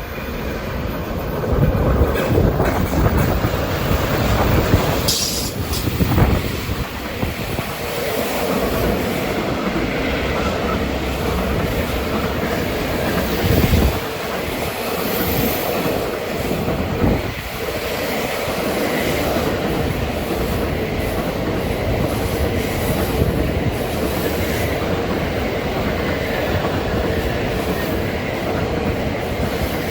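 Freight train rolling past, its wagons making a steady rumble with clickety-clack of wheels over the rail joints and some wheel squeal.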